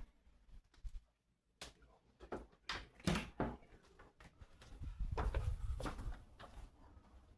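A run of irregular knocks and thumps, the loudest about three seconds in, with a low rumble under further knocks in the second half, like doors, drawers or cupboards being banged in a small room.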